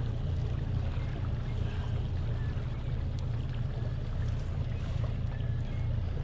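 Boat motor running steadily at low speed, a constant low rumble, with light wind and water noise over it.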